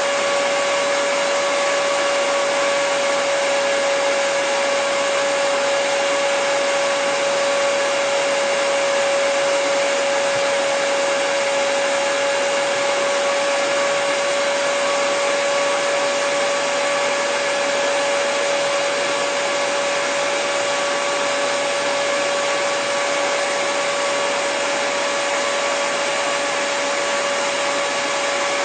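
Hair dryer running steadily: an even rush of air with a constant motor whine, no change in speed.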